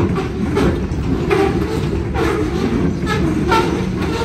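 Covered hopper freight cars rolling past: a steady rumble of steel wheels on rail, with a clack and a short squeak every second or so.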